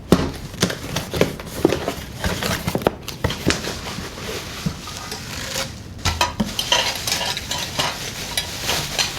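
Irregular light clicks and clattering over a steady rustling hiss, with a brief lull about three seconds in and busier clatter from about six seconds on.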